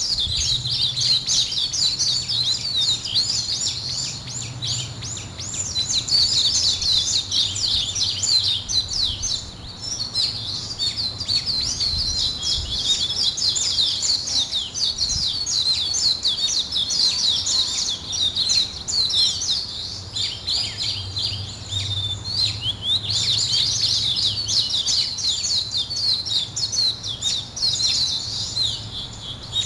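Dense chorus of many small birds chirping and twittering nonstop, many high, quick calls overlapping at once, with a faint low hum underneath at times.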